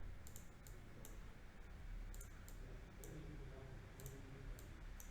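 Computer mouse clicking: several short, sharp clicks at uneven intervals over a faint steady low hum.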